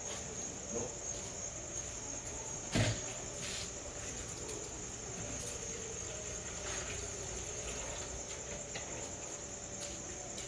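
Crickets trilling steadily, a continuous high chirring, with a single sharp knock about three seconds in and a few faint clicks.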